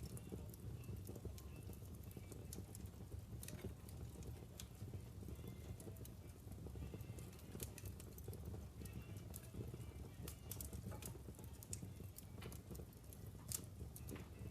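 Wood fire burning in a fireplace, with irregular sharp crackles and pops from the burning logs over a low, steady rumble of the flames.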